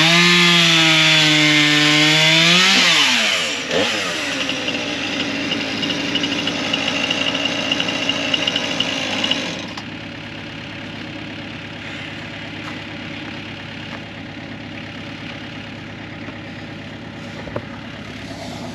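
Chainsaw bucking a firewood log: the engine pitch sags under load, then climbs sharply as the cut finishes about three seconds in. The saw then runs at a steady lower speed until about ten seconds in, when it stops, leaving a quieter steady engine hum.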